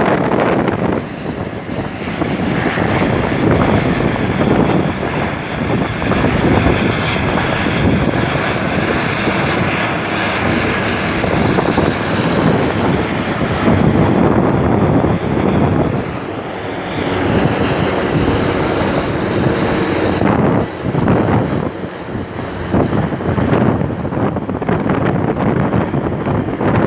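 Passenger aircraft engines running loud and close, a dense rush of noise with a faint steady whine over it, swelling and easing slightly as the plane moves.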